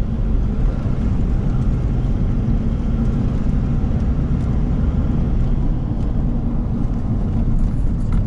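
Vehicle driving slowly along a rough dirt track: steady engine and road rumble.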